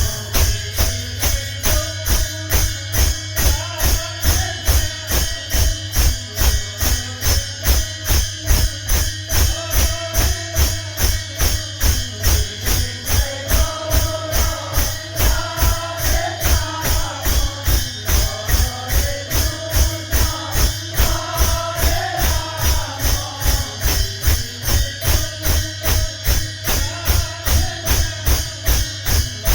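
Kirtan devotional music: a fast, steady beat of drum and jingling hand percussion, with a melody rising and falling over it for a stretch in the middle.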